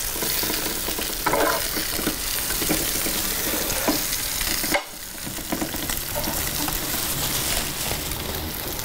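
Pork ribs sizzling steadily as they fry, with a brief drop in the sizzle about halfway through.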